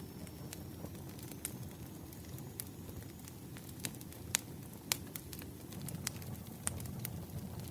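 Wood fire crackling: irregular sharp pops and snaps, a few at a time, over a steady low rumble.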